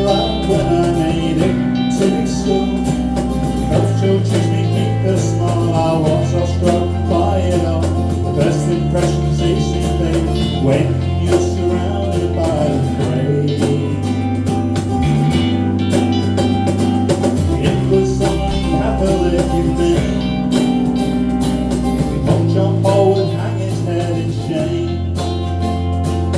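Live band music: guitars over a bass line that changes note every couple of seconds, with a steady beat.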